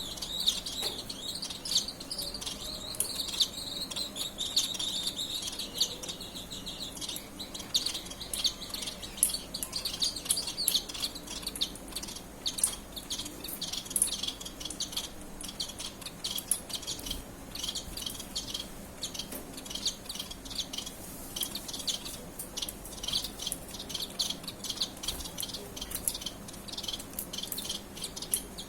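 Several birds chirping and calling: a dense run of high chirps during the first few seconds, then many short, sharp, high-pitched chirps that come thick and fast.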